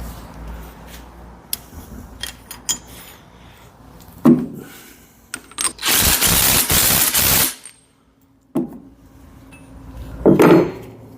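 Impact wrench run in one burst of about a second and a half, tightening a hydraulic quick coupler onto a hose end. Before and after it come clinks and knocks of metal parts being handled, with a thump about 4 seconds in and another near the end.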